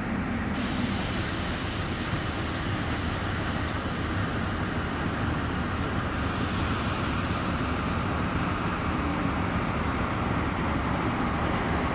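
Steady running noise of a DR1A diesel multiple unit: a low engine drone under a broad rumbling noise, growing slightly louder toward the end.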